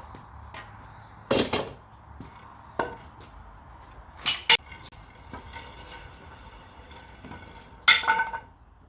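A few separate knocks and clatters of wood pieces and tools being handled and set down after a cut, the last one near the end with a brief ringing.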